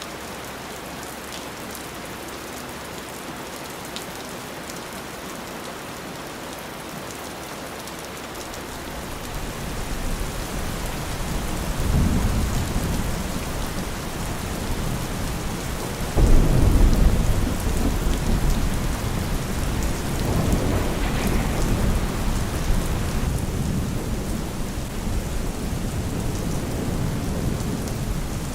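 Steady heavy rain falling, with low rolling thunder building about a third of the way in; a louder clap of thunder about halfway through is followed by a long rumble.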